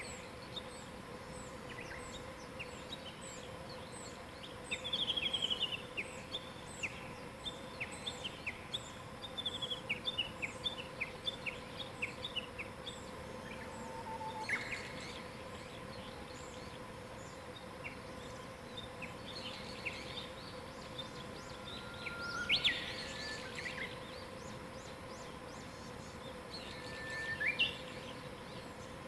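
Wild birds singing and calling: quick trills and runs of short chirps, several birds overlapping, with louder calls a little past halfway and near the end.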